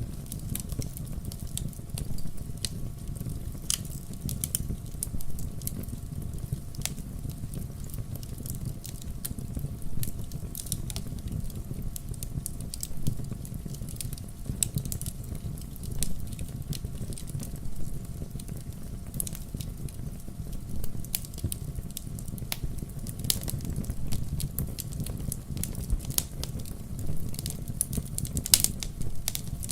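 Fireplace fire crackling: frequent small, sharp pops and snaps scattered irregularly over a steady low rumble of the burning fire.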